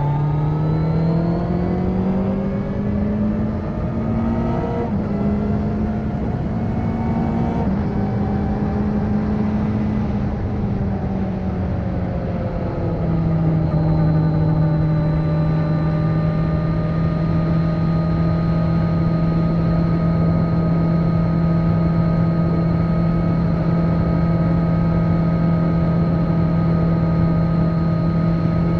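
Kawasaki Z900's 948 cc inline-four engine, with its catalytic converter removed, under way on the road. The engine note climbs over the first few seconds, dips briefly twice, falls away around the middle, then holds a steady pitch at cruise for the second half.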